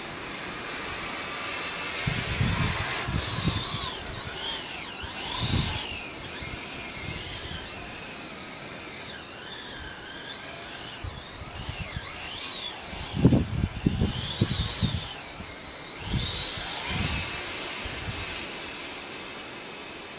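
Twin brushless electric motors of an RC snowcat whining, the pitch rising and falling repeatedly with the throttle. Low rumbling thumps come and go, loudest about two thirds of the way through.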